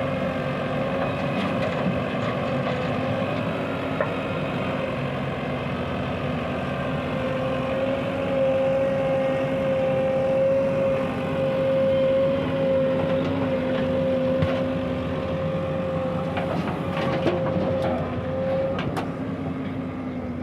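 Diesel engines of a working JCB backhoe loader and tractor running steadily with a constant drone, growing a little louder in the middle. A few sharp knocks come near the end.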